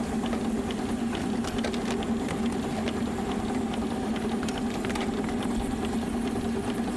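The 7¼ inch gauge steam locomotive Tinkerbell running steadily at gentle speed under steam, with a steady hum and scattered light ticks from its running gear and wheels on the rails.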